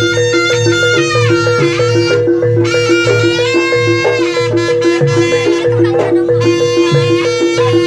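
Live jaranan gamelan music: a reedy slompret (shawm) plays a gliding, ornamented lead melody over a steadily repeating two-note metallophone pattern and pulsing low drum and gong beats.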